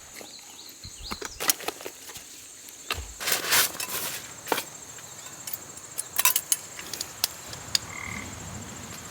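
Irregular light taps and clicks over a steady, high, pulsing insect-like trill, with a short high call near the end.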